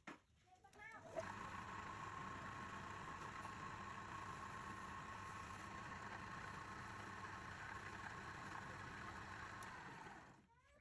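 A machine motor switched on about a second in and running at a steady speed with a steady whine, then winding down and stopping near the end.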